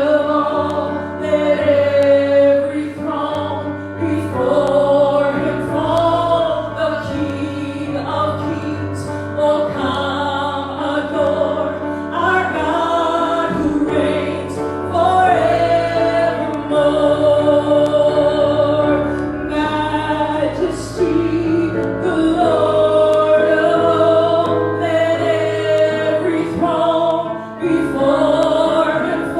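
Congregational worship music: a group of voices singing a slow song with held notes over instrumental accompaniment and a steady bass line.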